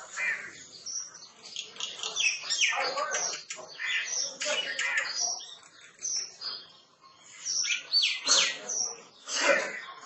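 Small birds chirping and calling, many short high calls overlapping one another, with two quick downward-sliding whistled notes about eight seconds in.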